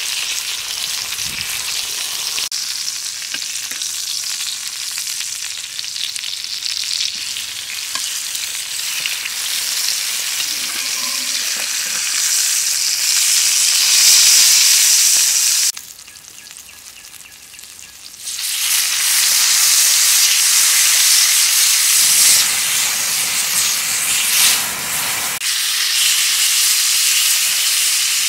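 Eggplant halves frying in oil in a cast-iron pan over a wood fire, a steady sizzle. The sizzle drops away for about two seconds past the middle, then comes back louder.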